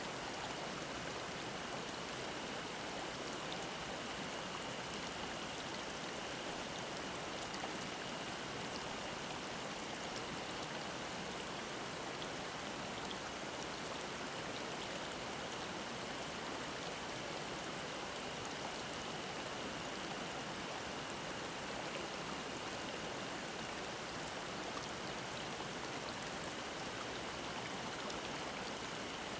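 Mountain stream babbling over rocks with a steady, even rush of water, and a cicada drone held on one high tone behind it.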